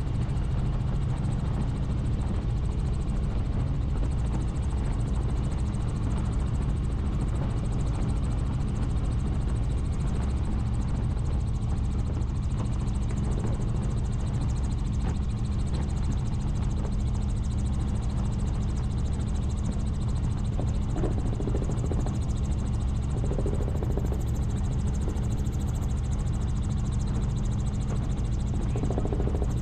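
Helicopter in flight: a steady, unbroken drone of the rotor and turbine, heavy in the low end.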